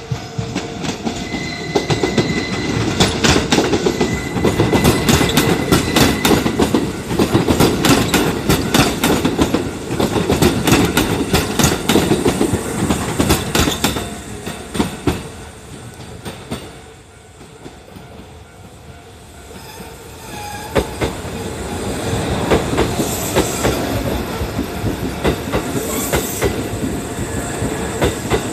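Kintetsu electric trains passing a level crossing, wheels clacking rhythmically over the rail joints. The sound drops to a lull a little past halfway, then a second train builds up and passes.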